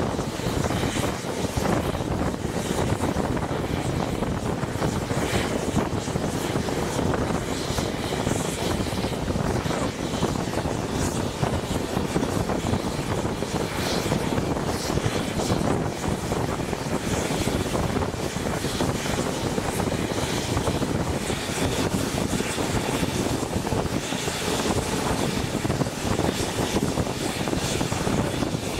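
Steady running noise of a steam-hauled passenger train at speed, heard from an open carriage window with wind rushing past.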